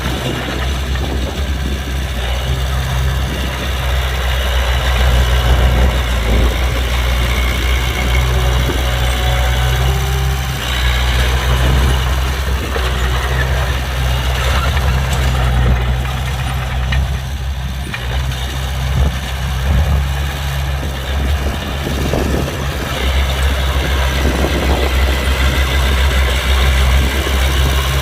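Heavy diesel engines of earthmoving machinery running steadily, mostly at idle, with a deep steady hum. The engine sound grows rougher and fuller about a third of the way in and again near the end.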